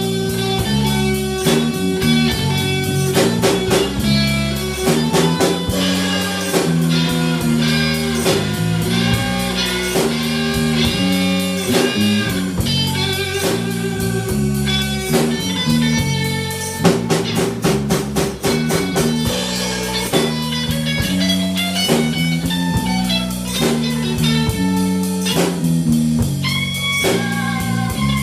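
A blues band plays a slow instrumental section with no singing: electric guitar lines with bent notes over bass and drum kit.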